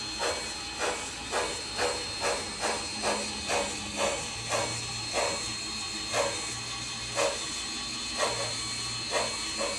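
Recorded steam-locomotive chuffing from an HO scale Challenger's ESU LokSound sound decoder, played through the model's small speaker: a steady hiss with sharp exhaust puffs about twice a second, the spacing growing more uneven in the second half. A low hum comes and goes under it.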